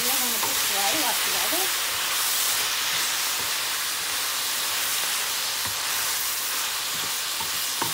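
Spinach and broccoli sizzling in a hot pan, a steady hiss of steam rising off them just after the stove has been switched off.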